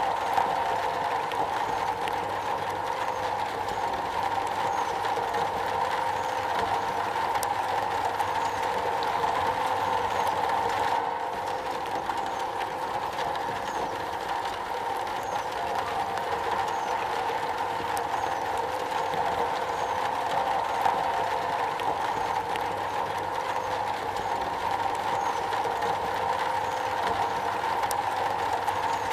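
Steady, dense rain falling on a metal roof, an even patter with no let-up.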